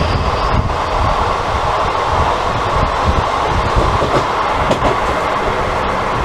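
Passenger train running at speed, heard from on board: a steady rush and rumble of wheels on rails, with a few faint rail-joint clicks.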